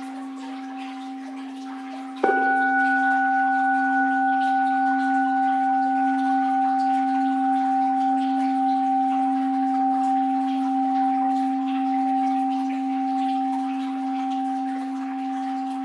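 An orin, a Japanese Buddhist bowl bell, is struck about two seconds in while an earlier stroke is still ringing. The new stroke adds higher tones that fade within seconds, and the deep tones ring on with a slow wavering, over a faint background of flowing water.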